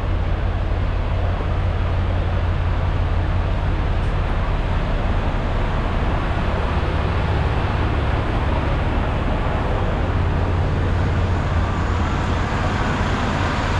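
Steady vehicle noise: a strong low rumble under an even hiss, with no change in pitch or level.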